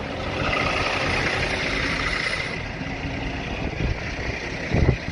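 Gusting wind on the microphone over an engine idling, with a single low thump near the end.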